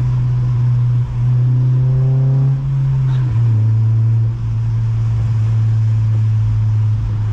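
Honda Civic Si four-cylinder engine heard from inside the car, pulling steadily at raised revs in a lower gear just after a downshift. Its note drops a little about three seconds in, over a steady wash of road noise.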